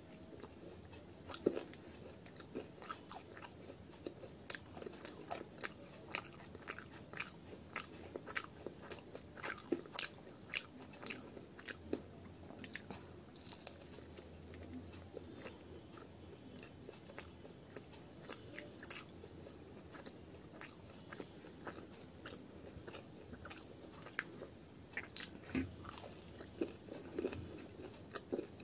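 A person biting and chewing fried radish-stuffed kachori (muli ki kachori): a constant run of short, sharp, irregular mouth clicks and crunches.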